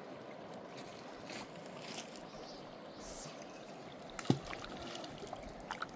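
River water flowing steadily, with a few small splashes and one sharp knock about four seconds in.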